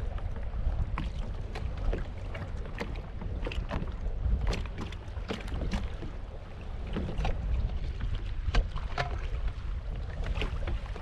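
Wind buffeting the microphone as a steady low rumble, with many short, irregular clicks and knocks of handling on a kayak.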